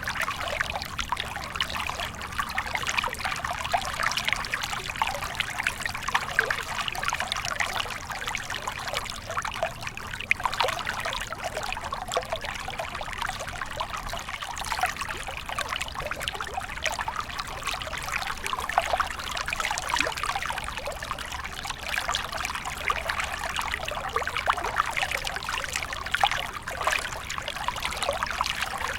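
A small stream trickling and babbling steadily over stones, a continuous bubbling splash with no pauses.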